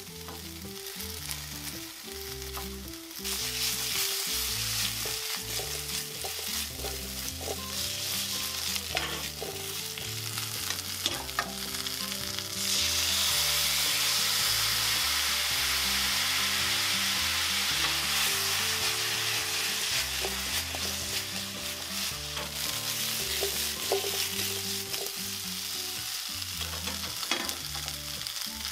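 Nagaimo yam cubes frying in butter in a non-stick frying pan, a steady sizzle with occasional clicks. The sizzle grows louder a few seconds in, and louder again about halfway through as soy sauce is poured into the hot pan.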